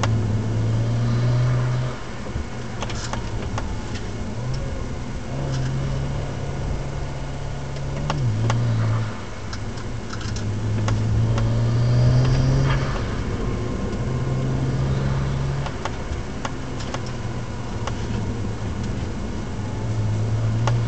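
BMW 135i's N54 twin-turbo inline-six heard from inside the car, its note repeatedly climbing under acceleration and dropping back as the car is driven through a run of curves.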